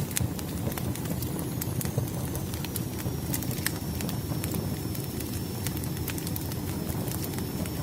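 Firewood burning in a fire, crackling with irregular sharp pops and snaps over a steady low rumble.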